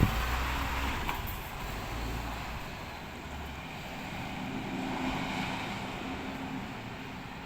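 Glass recycling truck's engine running as it pulls away, the low rumble fading over the first few seconds and settling into a quieter steady drone.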